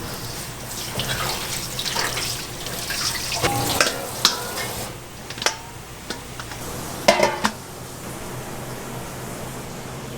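Water running from a kitchen tap, easing off about halfway, with a few sharp clinks and clatters of kitchen utensils and dishes over a steady low hum.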